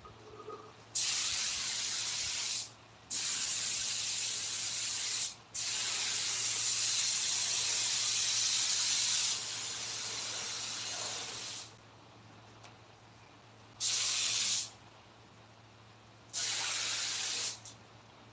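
Pressurised spray hissing in five bursts, the longest about six seconds and the shortest under one, with short pauses between, over a steady low hum.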